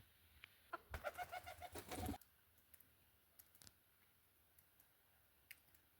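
A bird calling: a quick run of repeated notes lasting just over a second, about a second in. After it come a few faint scattered ticks.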